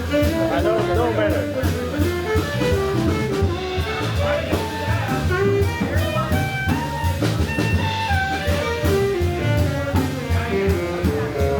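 Live jazz band playing: a melody line of separate notes moves up and down over a walking low end and a drum kit keeping time with steady cymbal and drum hits.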